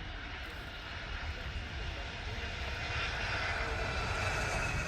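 Aircraft engine noise of a fixed-wing aircraft flying by, growing louder, with a high whine that slowly falls in pitch in the second half.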